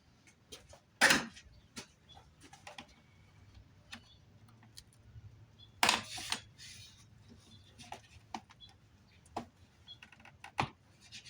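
Scattered clicks, light rattles and small knocks of parts being handled in a car's engine bay, with two louder clunks, one about a second in and one about six seconds in.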